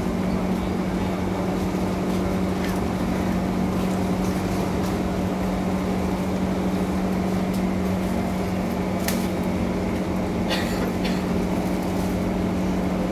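Inside a Kawasaki Heavy Industries C151 train: a steady hum with a constant low tone, and a few brief sharp clicks about nine and ten and a half seconds in.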